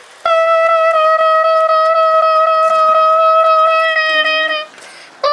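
Horn from an HO-scale CSX model locomotive's sound system, one steady note with a buzzy edge. It sounds one long blast of about four and a half seconds, stops, and a second long blast begins near the end.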